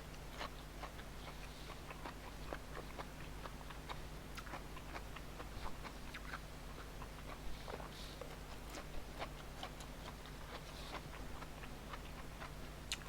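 A person chewing food close to the microphone, with many short mouth clicks at irregular intervals.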